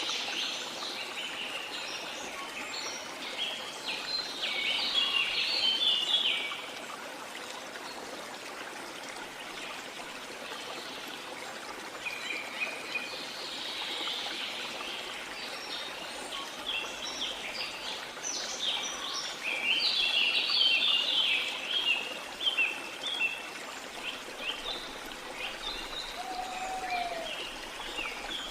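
Steady rush of a flowing river, with birds chirping in quick clusters of high notes. The chirps are densest in the first six seconds and again about two-thirds of the way through.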